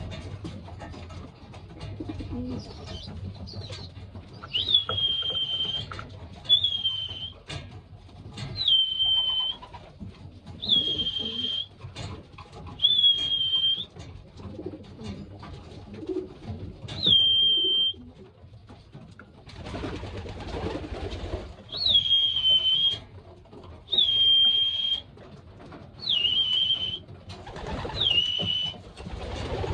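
Young pigeons (squeakers) giving high, thin squeaking calls, about ten of them roughly two seconds apart, each a short downward slide into a held note lasting about a second.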